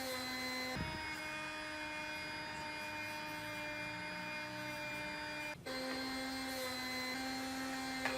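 A small electric motor, typical of a workshop power tool, running with a steady whine. Its pitch steps to a different note about a second in and steps back after about five and a half seconds.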